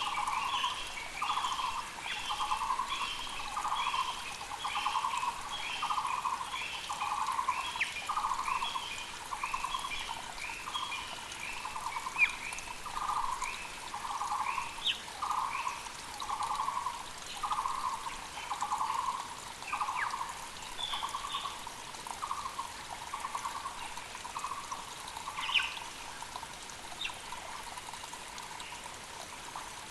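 Muller's barbet (Taiwan barbet) calling, a low hollow note repeated a little over once a second, with faster, higher chattering calls from other birds alongside. The repeated calls stop about three-quarters of the way through, leaving the steady rush of a mountain creek and a few scattered chirps.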